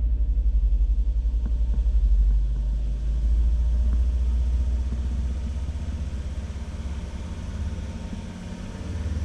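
Volvo 2.4 non-turbo five-cylinder petrol engine running, louder in the first seconds after the throttle is opened and easing back toward idle. It runs smoothly with no misfire on any cylinder, the misfire cured by new spark plugs.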